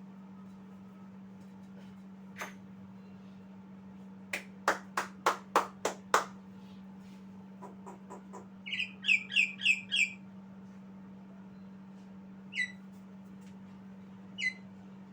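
Javan myna calling: first a run of about seven sharp, loud clicks, then a quick string of about five chirps, and later two single short downward calls. A steady low hum runs underneath.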